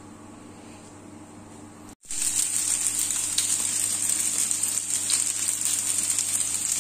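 A faint steady hum, then about two seconds in the sound cuts. Then comes a loud, steady sizzle of chicken breasts frying on a ridged grill pan, with small crackles and pops.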